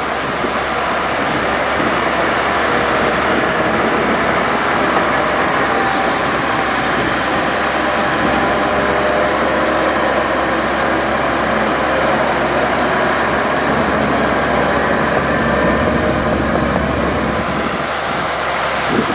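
Heavy earth-moving machinery running steadily, a diesel engine under a constant noisy hum with faint whining tones.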